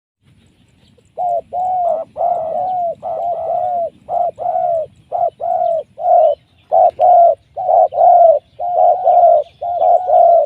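Spotted dove (tekukur) cooing loudly: a long, rapid run of short coos, beginning about a second in.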